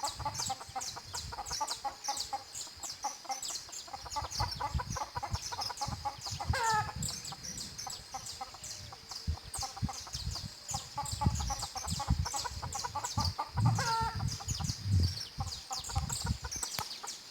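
Chickens clucking, with two louder drawn-out hen calls about six and fourteen seconds in, over rapid high chirping of canaries and a steady thin high tone.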